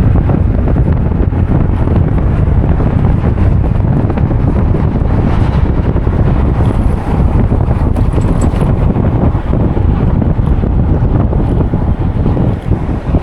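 Wind buffeting the microphone: a loud, steady, low rumbling rush.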